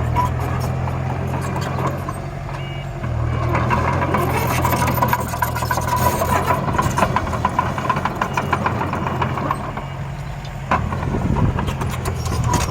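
Engine of a construction machine running steadily, easing off twice. Through the middle stretch a high tone and a rapid clicking sound over it.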